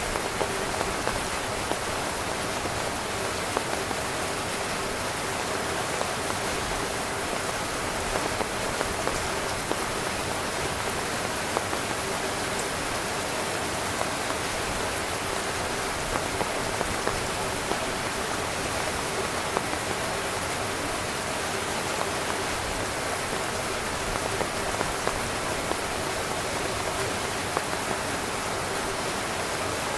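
Heavy rain drumming on a camping tent: a dense, steady hiss of rainfall with many small drop ticks on the fabric.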